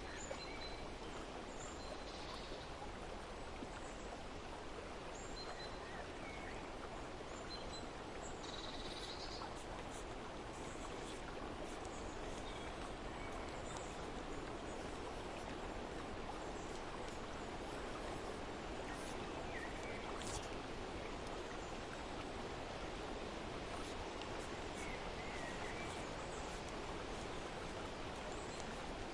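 Steady rush of running water with a few short bird chirps scattered through it.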